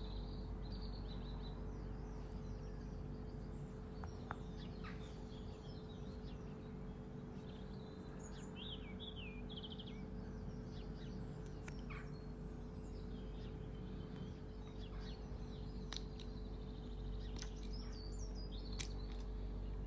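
Small birds chirping and twittering on and off over a steady low hum. There are a few faint clicks, the sharpest near the end.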